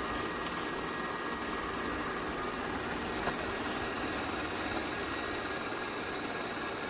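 iRobot Roomba 104 robot vacuum running: a steady motor whir with two steady whining tones through it, and a small click about three seconds in.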